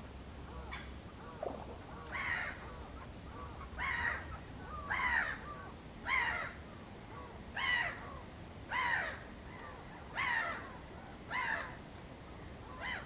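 A large bird calling over and over in a regular series: about nine loud calls, each a short arched note, a little over a second apart. Other birds call faintly in the background.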